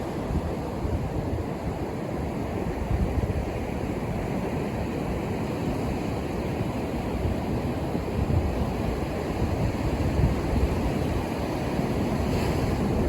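Atlantic surf breaking on the beach: a continuous rushing wash with low, rumbling surges as waves come in.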